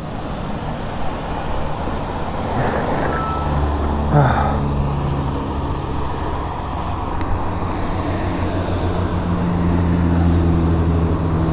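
Road traffic running past, with wind rushing over the microphone of a moving e-bike; a low hum swells around the middle and again near the end.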